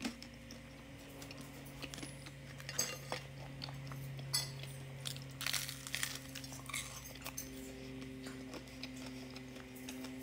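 Close-miked biting and chewing of fried cassava: soft crunches and wet mouth clicks scattered through, over a faint steady hum.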